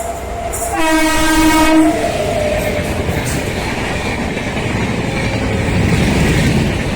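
Express train running through the station at speed: it sounds its horn in one blast of about a second near the start, then the coaches go by with a steady rush and wheel clatter.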